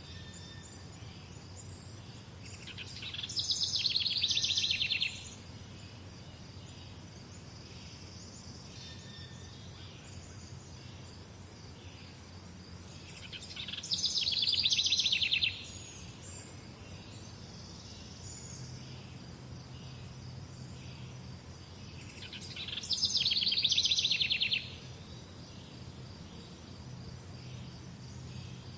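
Songbird repeating a rapid, high trilled song phrase three times, about ten seconds apart; each phrase lasts about two seconds, swells and then stops abruptly. Fainter chirps from other birds carry on in between.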